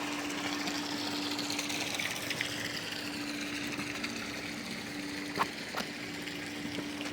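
Water falling and splashing steadily from a man-made waterfall, with a steady hum under it. There are two short knocks a little over five seconds in.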